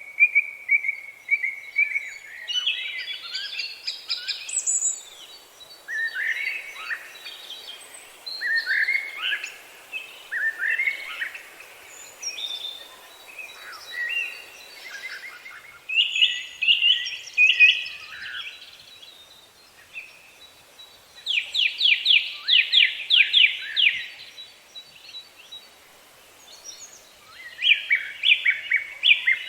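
Several songbirds singing in turn: varied whistled and chirped phrases with short pauses, including a fast, even trill a little past the middle and another burst of trilled notes near the end. A faint, steady high thin tone sits underneath.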